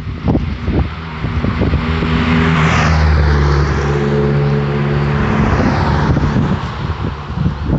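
A motor vehicle passes by, its engine and tyre noise swelling to a peak about three seconds in and then fading.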